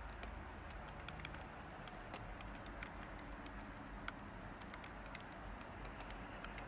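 Light typing on a computer keyboard: scattered, irregular keystrokes over a steady white-noise hiss.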